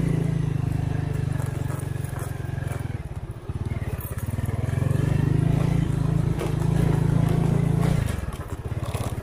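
Honda Win 100's single-cylinder two-stroke engine running under load as the motorcycle is ridden over rough, soft ground, the throttle eased off briefly about three seconds in and again near the end, then opened back up.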